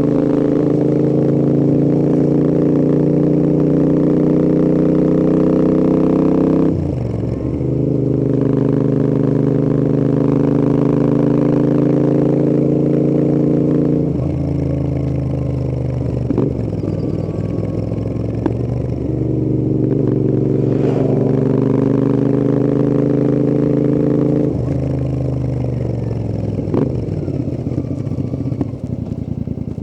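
Royal Enfield Interceptor 650's parallel-twin engine and exhausts under way: the note climbs steadily under throttle, drops with a quick gear change about seven seconds in and climbs again. It then winds down off the throttle twice, with a few sharp pops on the overrun.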